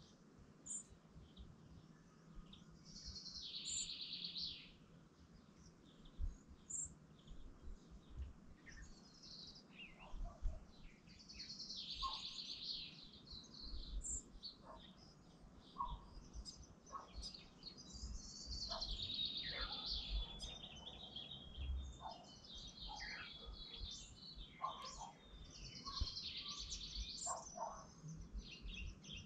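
Birds singing: high, fast trilled phrases every several seconds, with short chirps in between, over a faint low rumble.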